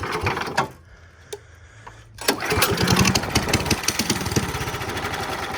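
Go kart's single-cylinder 270cc Wiltec engine being started. A short burst at the start dies away, then about two seconds in it catches and runs with a rapid, even beat through the loud aftermarket exhaust. It is running only roughly, with its choke lost.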